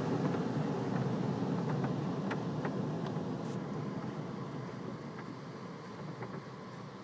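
Car wash drying blowers heard from inside the car, a steady rushing of air that gradually fades away.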